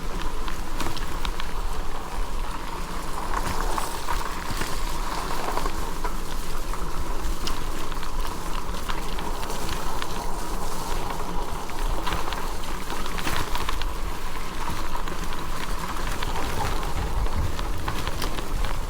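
Steady crackling noise of an e-bike rolling along a wet, muddy trail, tyres on the wet ground, with wind rumble on the microphone.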